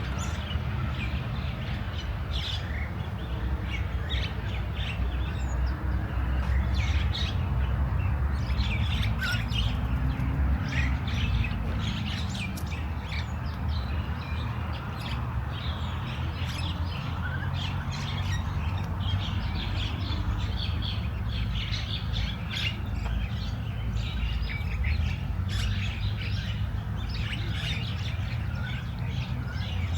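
Small birds chirping and tweeting, many short high calls scattered throughout, over a steady low rumble.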